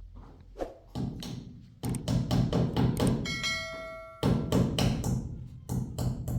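A rapid series of sharp knocks and taps, with a brief ringing, bell-like tone about halfway through.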